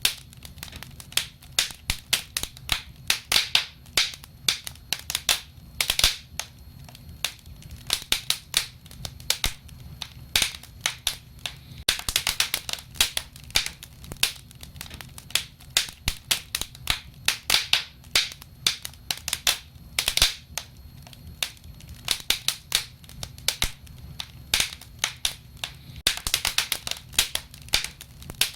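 Wood fire crackling and popping: many sharp irregular snaps, several a second and sometimes in quick clusters, over a low steady rumble of burning.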